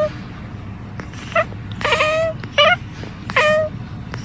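A cat meowing over and over: about four short, pitched meows in quick succession.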